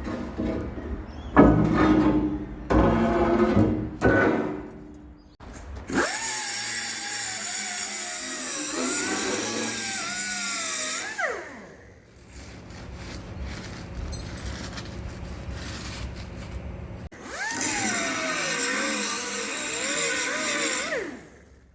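Angle grinder working steel plate: its whine sags in pitch as the disc bites and climbs back as it eases off, in two long runs with a hiss of grinding over it. A few knocks and clanks come first.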